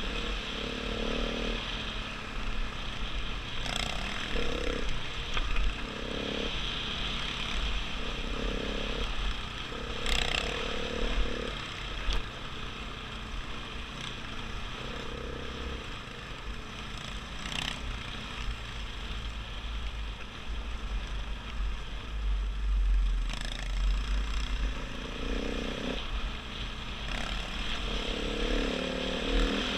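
KTM 500 EXC dual-sport bike's single-cylinder four-stroke engine running on a rough dirt track, its note rising and dropping as the throttle opens and closes. A steady low rumble runs under it, with a few sharp knocks as the bike hits bumps and rocks.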